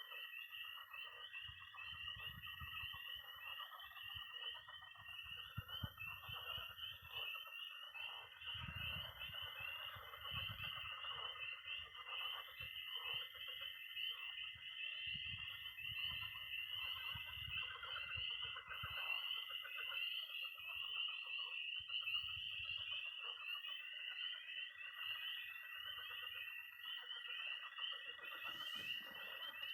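Night chorus of frogs and toads at a pond: peeping tree frogs calling densely and continuously, over a long, steady high-pitched toad trill that stops and restarts, and a lower chorus of croaking pond frogs.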